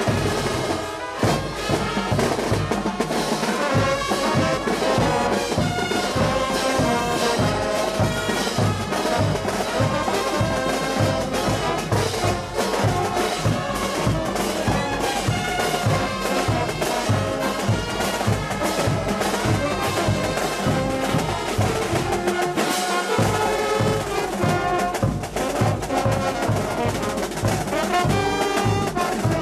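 Brass band playing, with trumpets and trombones carrying the tune over a steady drumbeat.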